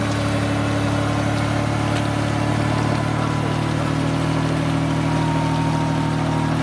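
An off-road SUV's engine running steadily at constant revs, with no revving.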